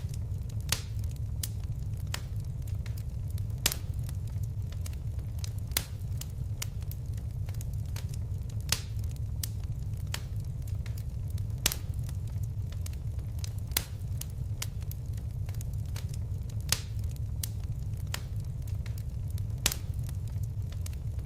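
Fireplace fire crackling: a steady low rumble of flames with sharp pops, the loudest coming every second or two and fainter ticks between.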